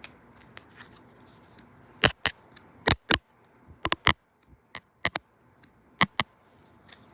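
Sharp clicks coming in pairs, about one pair a second, five pairs in all, from the sticks of a pick-a-stick number game being handled.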